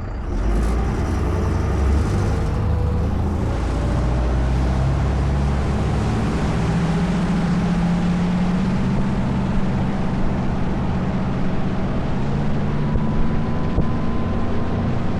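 Motorboat engine speeding up just after the start, its pitch rising for a few seconds, then running steadily under way, with a broad rush of wind and water.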